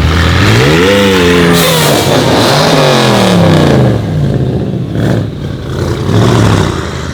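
Loud car engine revved hard: the pitch climbs, holds briefly, then falls back over a couple of seconds, and the engine drops to a lower, quieter running sound.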